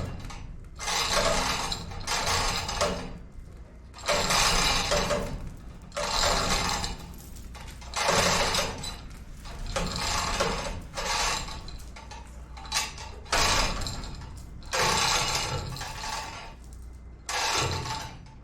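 Hand chain hoist (chain fall) being worked in repeated pulls: the chain rattles and ratchets through the hoist in about a dozen bursts, each a second or less long, as it moves a heavy load.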